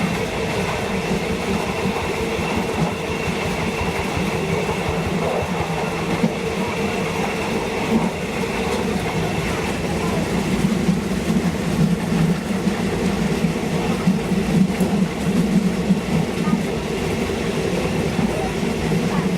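Passenger train on the State Railway of Thailand running steadily along the track, with a constant rumble of wheels on rails and a steady hum.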